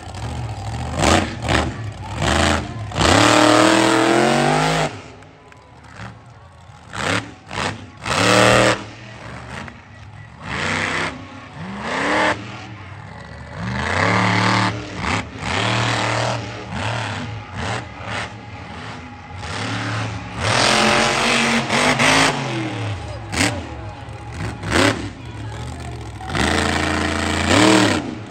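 Monster truck engine revving hard in repeated surges, its pitch climbing with each burst of throttle and falling back in between, about five big revs.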